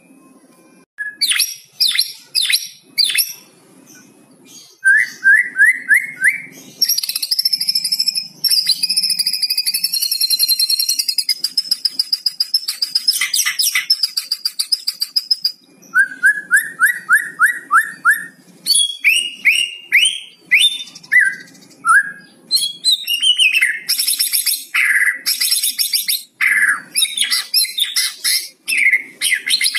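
White-rumped shama singing a loud, varied song of quick chirps, sharp rattling 'kretekan' notes and whistles, with a long high trill in the middle and two quick runs of short rising notes.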